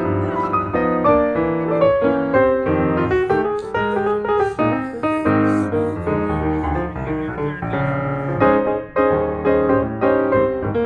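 Background music: piano playing a quick run of notes and chords.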